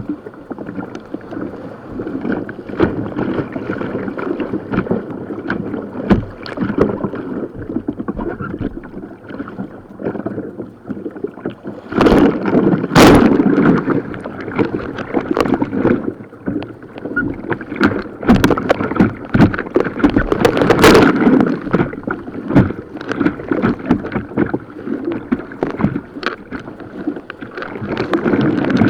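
Kayak on white water: steady rushing water with paddle strokes and splashes. There are sharp knocks of paddle or hull throughout, and louder splashes or bangs about twelve seconds in and again around twenty-one seconds.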